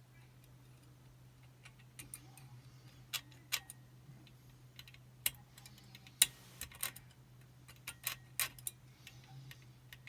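Small irregular metallic clicks of a picking wire and tension tool working the levers inside a Chubb Detector five-lever mortise lock, over a steady low hum; the sharpest click comes about six seconds in.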